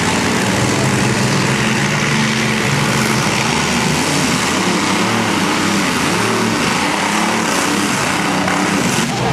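Pulling machine's engine running hard and loud, its pitch wavering up and down over a dense exhaust noise. The sound changes abruptly right at the end.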